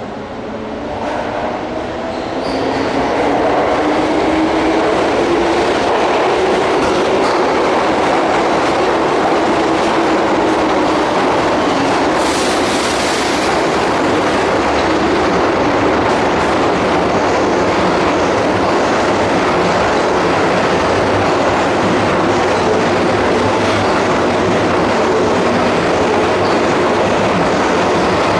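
Keihan electric train running on the track beside the platform. Its motor whine rises over the first few seconds and then settles into a loud, steady rumble and clatter of wheels on rail, with a brief high hiss about twelve seconds in.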